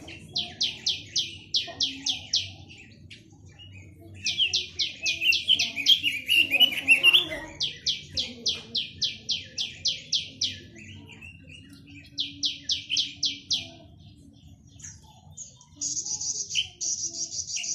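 Quế lâm songbird singing: phrases of rapid, evenly repeated high whistled notes separated by short pauses, one phrase dropping into lower warbling. Near the end it switches to a continuous high trill.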